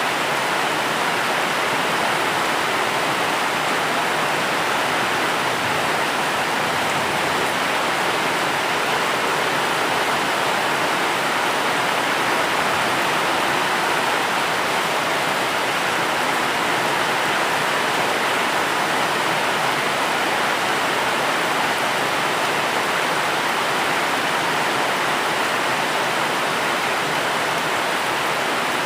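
Steady, unbroken rain noise, an even hiss with no distinct drops or thunder.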